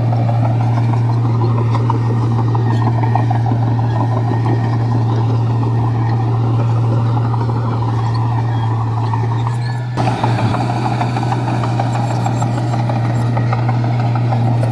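Komatsu bulldozer's diesel engine running steadily under load, a deep even drone with track and blade noise. About ten seconds in the sound briefly dips and changes.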